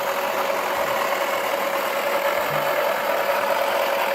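Toy washing machine's small electric motor running and turning its drum: a steady whir with a constant whine.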